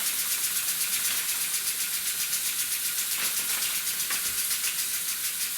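Small model steam engine running under steam: a steady hiss with a fast, even pulsing of several beats a second.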